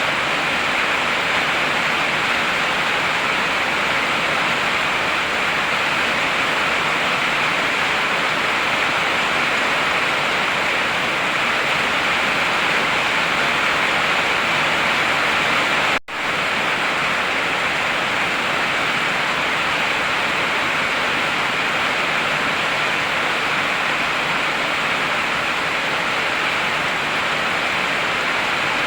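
Heavy rain falling steadily, an even hiss that dips out for a split second about halfway through.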